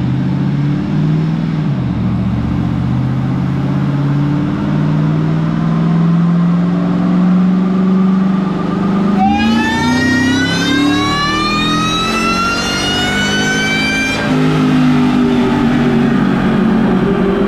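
Supercharged Ford 5.4 V8 of a 2003 Lightning making a pull on a chassis dyno. The engine note climbs through the first half. Then, at wide-open throttle, a high supercharger whine rises with the revs for about five seconds before the throttle is lifted and the engine winds down.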